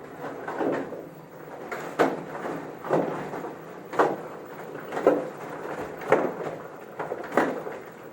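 Knocks from an LG washing machine's tub and its shock absorbers, about once a second, as the suspension is put through a damper check.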